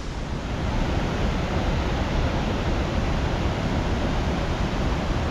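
Steady rushing of a flood-swollen creek, an even wash of water noise with a heavy low rumble that grows a little louder about half a second in.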